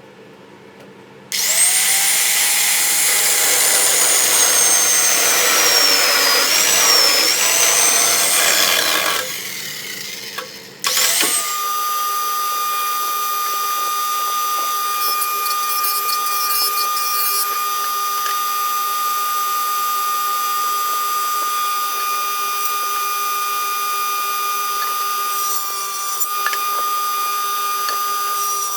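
Electric power tools working wood. For several seconds a tool whines as it cuts, its pitch wavering with the load. After a short break a motor runs with a steady, unchanging whine.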